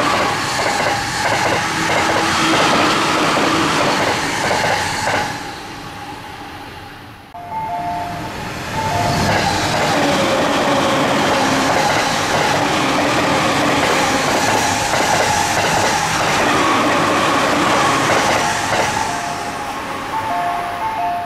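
Electric commuter trains passing at speed, their wheels clattering rhythmically over rail joints, with a steady high whine over the noise. About seven seconds in, the sound breaks off abruptly and a second train is heard passing.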